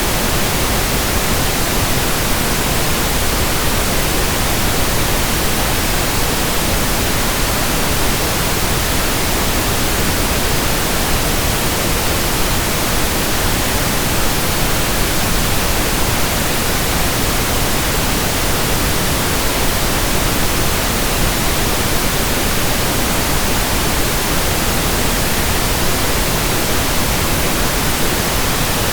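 Steady pink noise: an even, unchanging hiss across the whole range, with no rhythm or breaks.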